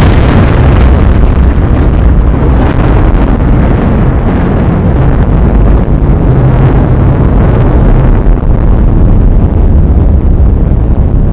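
Thunderstorm with heavy rain and strong wind, heard as loud, steady noise with a deep rumble that does not let up.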